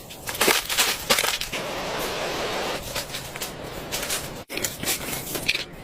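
Irregular crunching and crackling, a run of sharp clicks over a rustling hiss.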